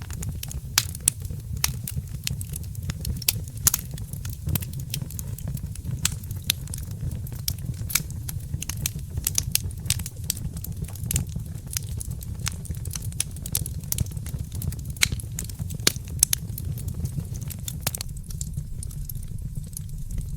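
Fireplace fire crackling: frequent irregular sharp pops and snaps over a steady low rumble, the pops thinning out near the end.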